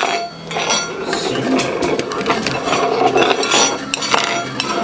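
Quick, repeated clinking and clattering of small hard objects.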